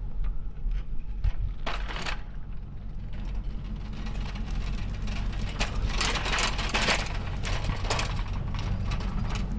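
A truck running with a steady low drone, with light metallic rattling and clinking on and off, busiest a few seconds in.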